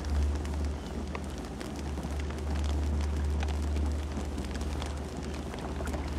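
Campfire burning: a steady low rumble of the flames with frequent sharp crackles and pops from the wood.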